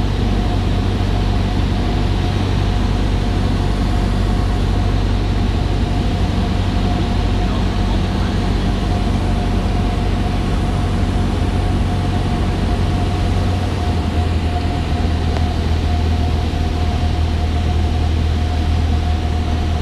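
Cessna 172's piston engine and propeller droning steadily, with a constant thin whine above the low hum; the low drone shifts slightly about two-thirds of the way through.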